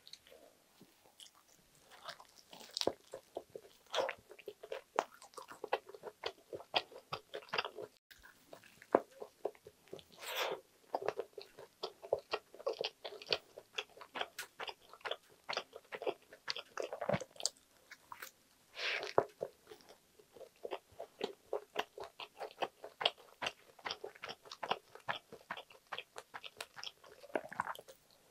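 Close-miked biting and chewing of a toasted sandwich: crisp butter-toasted bread and crunchy lettuce crackling rapidly with each chew, with several louder crunching bites, the loudest about ten and nineteen seconds in.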